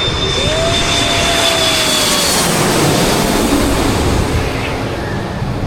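Landing airliner passing low overhead on final approach: a loud, steady engine rush with a high whine that fades out about two seconds in and a lower tone that slides slightly down in pitch.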